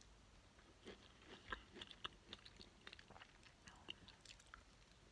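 Faint chewing of a piece of red pomelo: small, irregular clicks and smacks starting about a second in and stopping shortly before the end.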